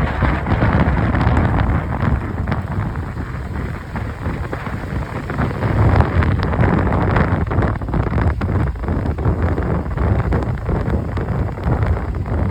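Motorcycle running on the move, its engine rumble mixed with heavy wind buffeting on the microphone.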